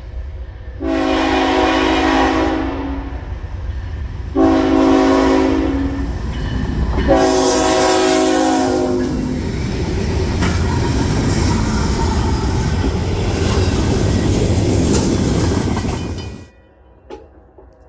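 Canadian National ET44AC locomotive sounding its chime horn in three long blasts, over the rumble of the passing freight train. The rumble drops away suddenly near the end.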